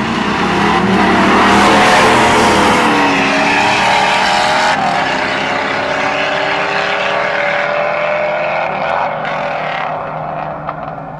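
Car engine accelerating hard at full throttle, its pitch climbing, dropping at a gear change and climbing again. It is loudest about two seconds in, then fades as the car pulls away.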